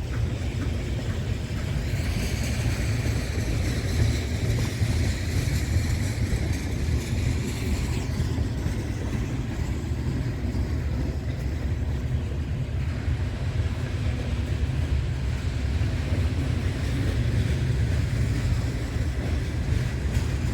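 Heavy loaded freight coal train rolling past: a steady low rumble of the cars on the rails. A higher rushing sound rides on top for several seconds near the start.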